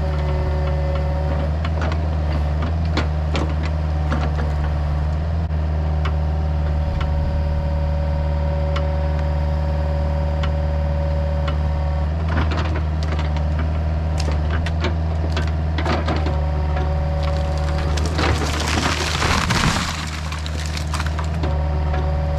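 Excavator engine running steadily with a hydraulic whine while wood cracks, snaps and splinters as trees are pushed and broken. A loud crash comes near the end, as timber breaks and falls.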